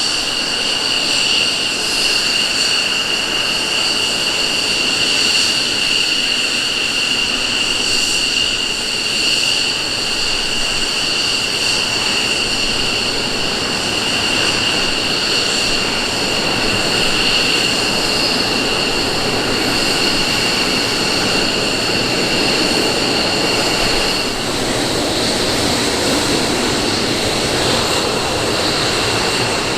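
F-15 Eagle's twin jet engines running, a steady high-pitched whine over a rushing noise. About 24 seconds in the whine stops and a deeper rushing noise rises.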